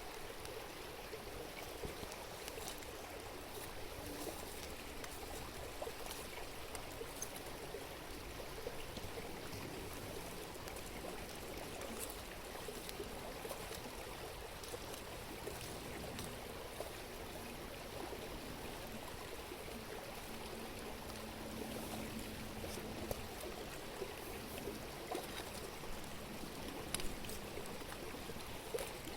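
A river stream babbling steadily, with a few faint sharp clicks scattered through it, a little louder near the end.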